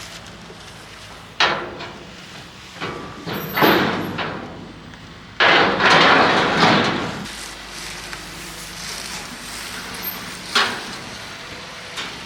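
A handful of sharp knocks and bangs, the loudest a longer clattering rush about five and a half seconds in, over a low steady background.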